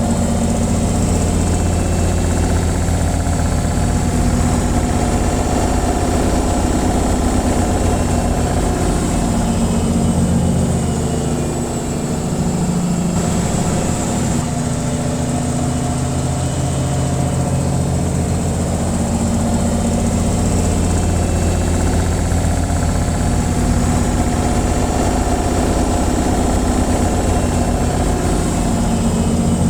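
Washing machine on its spin cycle: a steady low hum with a whir, dipping slightly about twelve seconds in.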